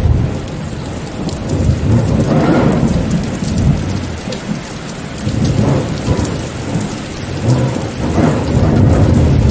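Heavy rain falling with rolling thunder, the rumble swelling and easing several times.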